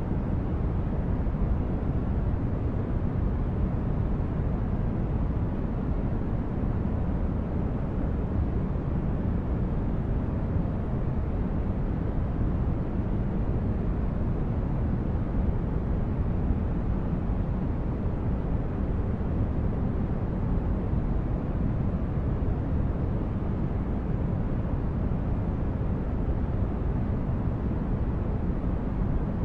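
Steady sleep-aid noise track sold as white noise: an even, deep rush with most of its weight low down and little treble, unchanging throughout.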